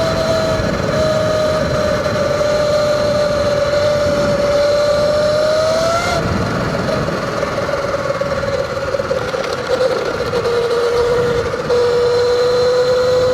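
Surron Light Bee electric dirt bike riding along, its motor giving a steady high whine over wind and tyre noise. The whine's pitch rises a little, drops after about six seconds as the bike eases off, then climbs again near the end.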